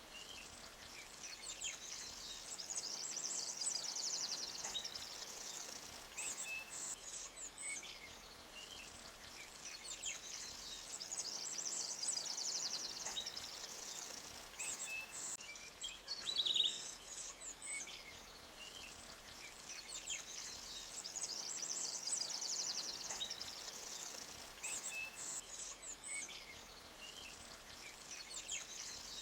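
Forest birds chirping and trilling in high, repeated phrases that swell and fade every few seconds, over the faint steady rush of a small stream. One sharper, louder bird note stands out about two-thirds of the way through.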